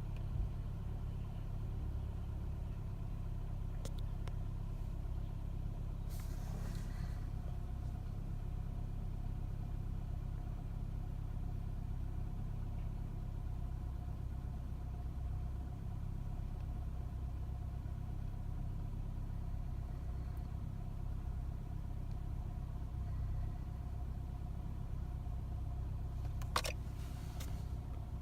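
2007 Nissan Altima engine idling roughly after a cold start, a low, uneven running with a faint steady whine over it. A brief noise about six seconds in and a sharp click near the end.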